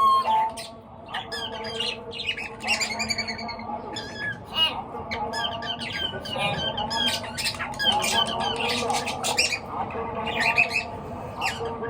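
A group of pet birds chirping and squawking together, many short overlapping calls in a busy, unbroken chatter.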